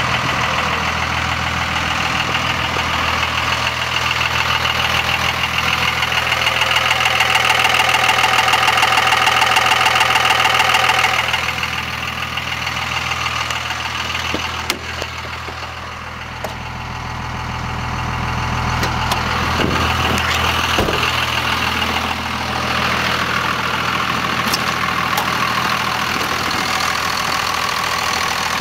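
Engine idling with a steady low hum and a fast, rhythmic higher-pitched noise on top, the unexplained noise being asked about. The noise grows louder over the first ten seconds, drops away suddenly about eleven seconds in, and comes back more faintly after about twenty seconds.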